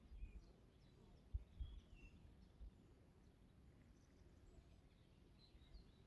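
Near silence outdoors, with faint, scattered chirps of distant small birds. A couple of soft low bumps sound about a second and a half in.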